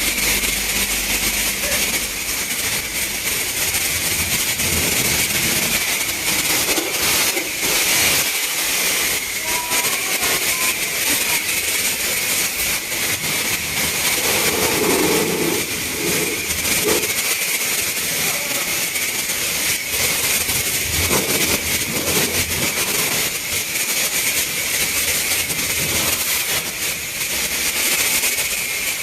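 High-pressure spray wand at a coin-operated self-serve car wash, spraying water in a steady loud hiss.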